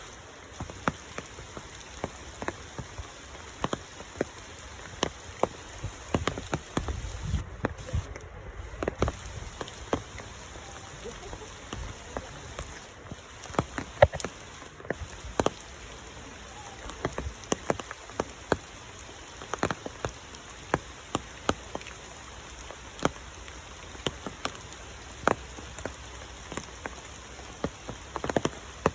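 Raindrops dripping and tapping irregularly on surfaces, sharp scattered drops over a steady hiss.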